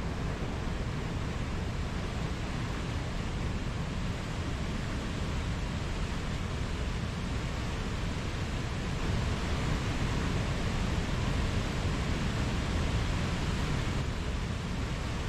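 Mountain stream rushing over rocks, a steady, even rush of water that swells slightly about nine seconds in.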